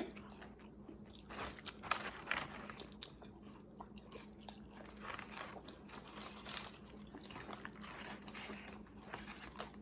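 Close chewing and crunching of a crispy fried chicken sandwich: a run of irregular soft crunches and mouth sounds.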